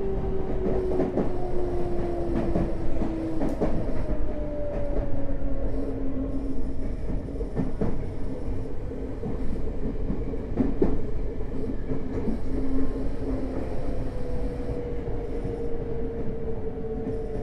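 Tokyo Metro 05 series electric train running, heard from inside the car: the Mitsubishi IGBT inverter and traction motor whine falls steadily in pitch over the first several seconds as the train slows, over constant wheel-on-rail rumble with scattered rail-joint clicks.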